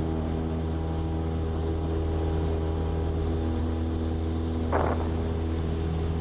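Cessna 172S's four-cylinder Lycoming engine and two-blade propeller droning steadily in flight, heard from inside the cabin.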